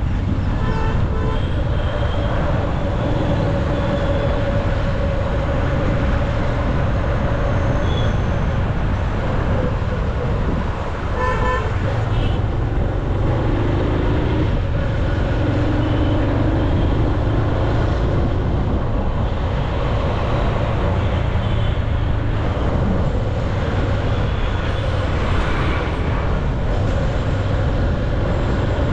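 Steady road and traffic noise heard from a moving motorcycle in city traffic. Vehicle horns toot briefly twice, once just after the start and again about eleven seconds in.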